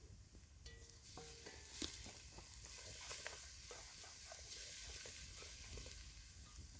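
Onions and garlic sizzling in hot oil in a pot over a wood fire, being stirred, with small scraping clicks against the pot; the sizzle picks up about a second in.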